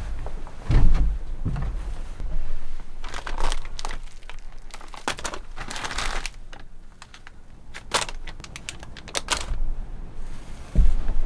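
Crinkling and rustling handling noise with many small sharp clicks, and low thumps about a second in and near the end.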